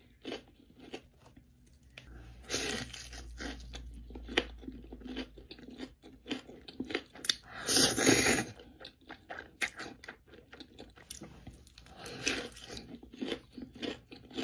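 A person eating close to the microphone: crunching bites of crisp food with chewing in between. The loudest crunches come about two seconds in, around eight seconds in, and near twelve seconds.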